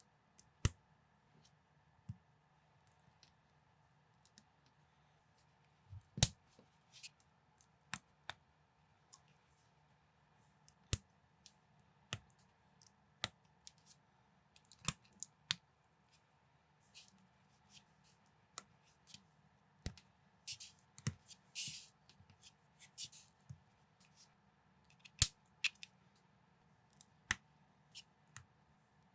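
LEGO-compatible plastic building bricks being handled and pressed together: faint, sharp clicks at irregular spacing, with one brief scraping rustle partway through.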